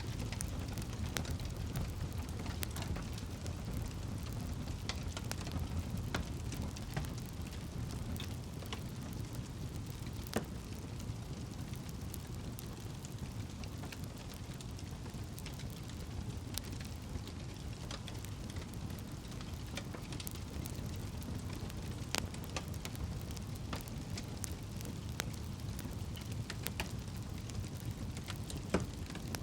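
Campfire burning: a steady low rumble with irregular crackles and pops, and a few sharper snaps scattered through.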